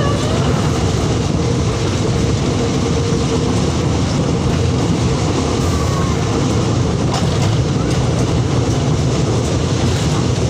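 Train running along the tracks, a steady rumble heard from on board, with a faint steady whine that fades about three seconds in.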